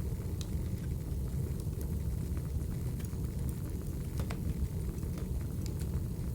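Wood fire burning: a steady low rumble of flames with sharp, irregular crackles and pops of the firewood.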